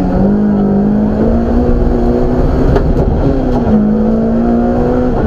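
BMW M3 rally car's engine pulling hard, heard from inside the cabin: the revs climb steadily, dip briefly a little over three seconds in, then climb again.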